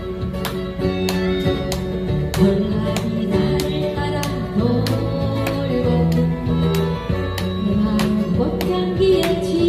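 Live acoustic guitar band playing a Korean pop song: strummed acoustic guitars with sustained melody notes over a steady beat of about two strokes a second.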